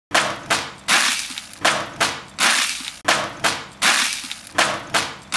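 Rhythmic noisy percussive crashes, each sharp and quickly fading, falling in groups of three with a short gap between groups, like a beat played on something that crunches or shatters.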